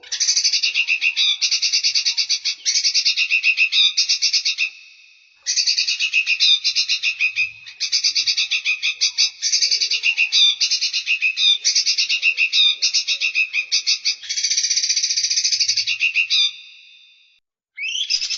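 Songbird song of fast rattling trills, rapid repeated notes at about ten a second, in phrases of one to two seconds with short breaks. It pauses about five seconds in and again near the end.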